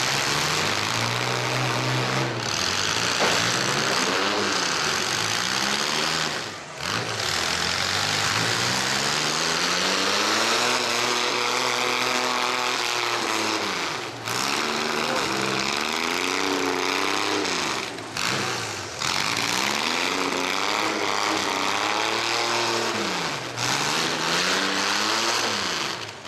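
Mini pickup trucks' engines in a demolition derby, revving up and dropping back again and again. The sound breaks off briefly a few times.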